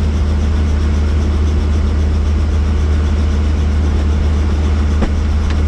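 Helicopter running, heard from inside the cabin: a loud, steady low drone of rotor and engine. A brief click about five seconds in.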